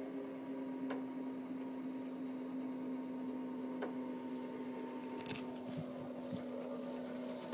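Electric motor of a wheelchair-mounted boom winch switching on and running with a steady hum while hoisting a deer, with a few light clicks and knocks.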